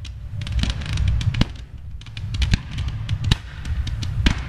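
Fireworks going off: a run of sharp bangs and cracks at irregular intervals over a low rumble, the loudest bangs about a second and a half in and again near the end.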